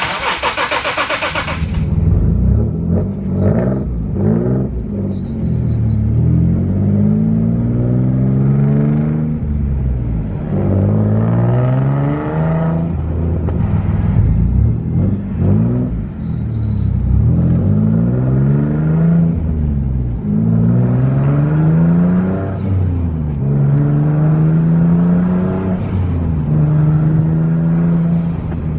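Single-turbo Nissan 370Z's V6 pulling hard through the gears, its pitch climbing and then dropping at each upshift, over and over. A loud rushing hiss fills the first two seconds, and the sound cuts off suddenly at the end.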